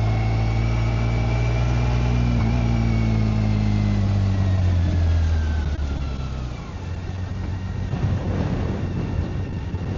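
BMW K1600GT's inline-six engine running steadily under way, then easing off and falling in pitch. About two-thirds of the way through, the engine note drops out and the rush of wind and road noise takes over.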